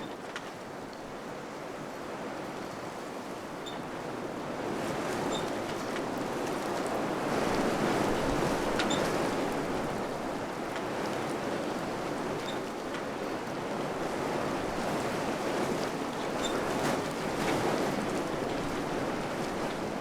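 Wind blowing in gusts, a steady rush that swells about eight seconds in and again near the end, with a few faint high ticks scattered through.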